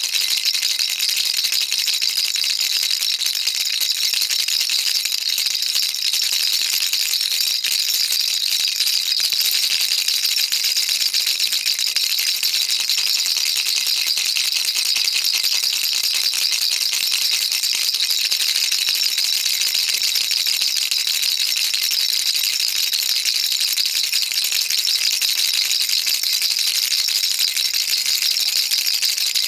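Baby rattle shaken continuously, a dense, steady rattling of small beads with no pauses.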